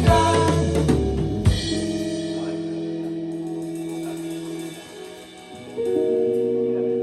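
A live band playing an instrumental passage: drum kit hits with cymbal crashes in the first second and a half, then held chords ringing out and fading, and a new chord coming in about six seconds in.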